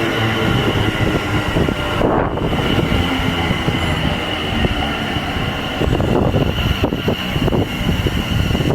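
A train running along the line: a loud, continuous rumble of wheels on rails with a steady high whine above it.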